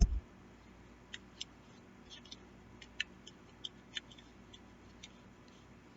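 A short knock at the start, then scattered faint small clicks and squeaks of a cloth rubbing solvent out of a Taurus G2S pistol's polymer frame.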